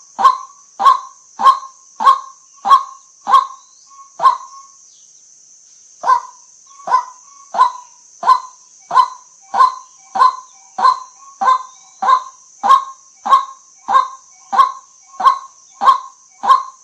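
White-breasted waterhen giving its repeated 'kwak' call, one short call about every 0.6 s, breaking off for about a second and a half around four seconds in and then resuming at the same pace. A steady high hiss runs underneath.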